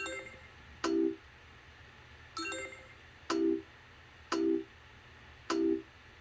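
Online car auction bidding software sounding six short electronic beeps, roughly one a second, each signalling a new bid coming in. Two of them carry an added higher chiming tone.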